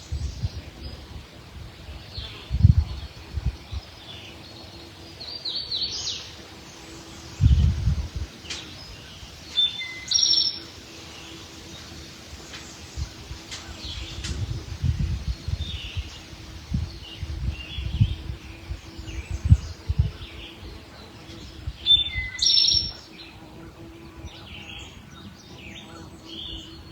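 Wild birds singing, in short scattered chirps and calls. Intermittent low rumbles are the loudest moments: around three seconds in, near eight seconds, and several through the middle.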